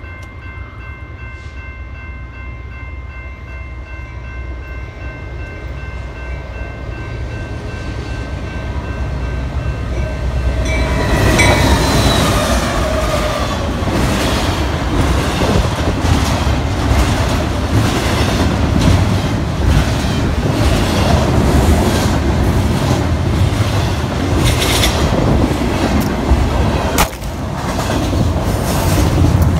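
A freight train approaching a grade crossing, its rumble growing steadily, with steady ringing tones from the crossing. From about eleven seconds in, a double-stack container train rolls past close by, its wheels clattering rhythmically over the rail joints.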